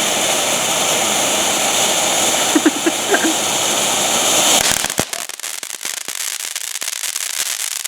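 Ground fountain firework spraying sparks with a steady hiss; a little over four and a half seconds in it changes to dense, rapid crackling.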